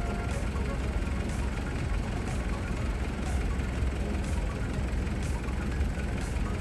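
Heavy diesel engine idling steadily, with a faint tick about once a second.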